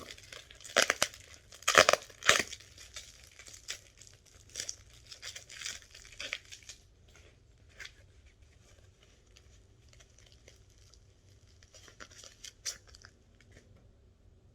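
Packing material being torn and crinkled as an item is unwrapped, loudest in a few sharp rips early on and fading to light rustling, with a short flurry of crackles near the end.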